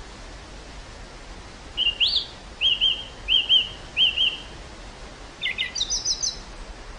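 Wind blowing steadily across an open field with a constant hiss, while a small songbird calls. About two seconds in comes one rising note, then three paired chirps, then a quick run of higher notes near the end.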